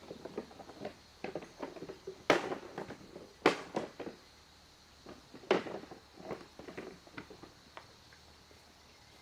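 Scattered light knocks and rustles of things being handled, with three louder sharp knocks, about a second apart, then a longer gap. A steady high insect drone runs underneath.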